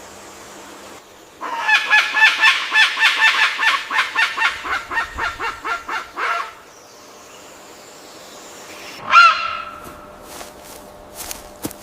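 A bird calling in a rapid series of loud, pitched, honk-like notes, about four a second for some five seconds and fading toward the end, then one louder single call a few seconds later.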